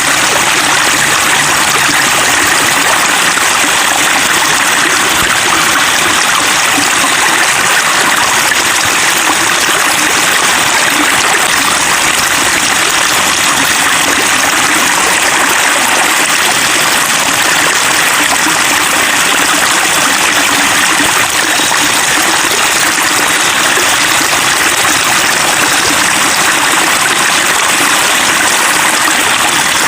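Running water babbling steadily, with no pause or change.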